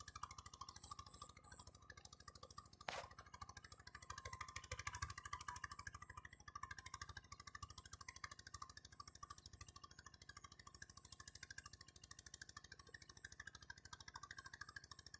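A small engine running faintly and steadily, with one sharp click about three seconds in.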